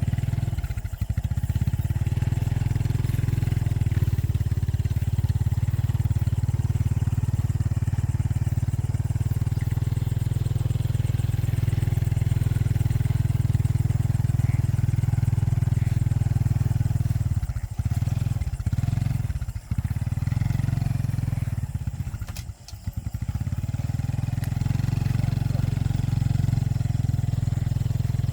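Small motorcycle engine running steadily with a low, even drone. It eases off and falters briefly between about 17 and 23 seconds in, then picks up again.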